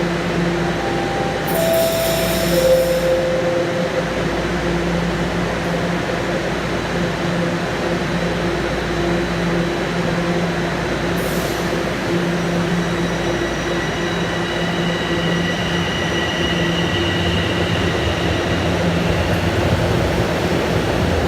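Bombardier TR subway train in the station, with a steady, pulsing electric hum. About two seconds in come a short descending three-note tone and a hiss of air. From about twelve seconds in, faint high whines rise over the hum.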